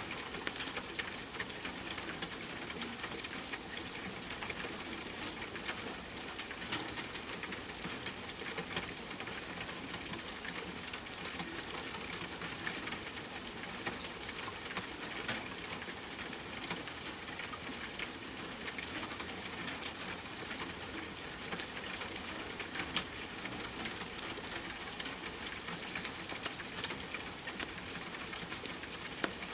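Steady hiss of rain with the frequent sharp pops and crackles of a wood fire burning.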